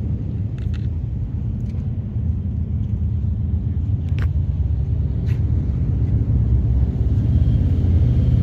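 Steady low rumble of a vehicle in motion, slowly growing louder, with a few faint clicks.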